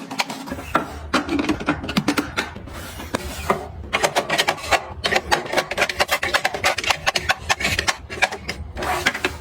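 Items being handled and arranged: a dense run of clicks and taps with rubbing and rustling between them.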